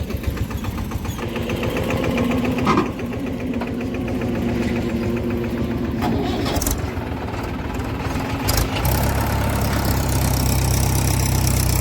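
Diesel engines of a tractor and a backhoe loader running at work, with a few short knocks; about nine seconds in, one engine takes on load and its note becomes deeper and louder.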